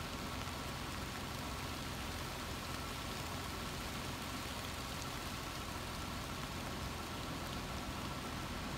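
Steady rain falling, with a low steady hum underneath and a few faint drop ticks.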